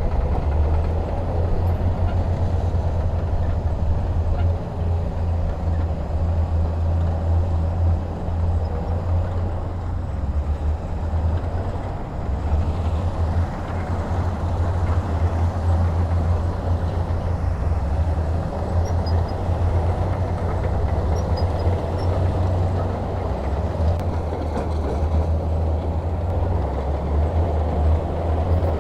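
Heavy diesel machinery engine running hard, a loud low rumble with a fast, even throb and small dips in level.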